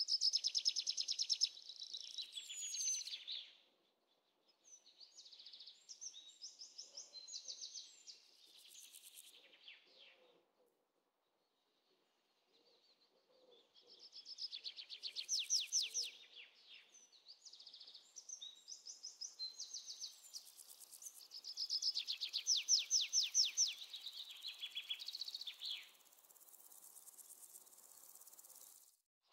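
A songbird singing phrases of rapid, high trilled chirps, each phrase lasting a few seconds with short pauses between them.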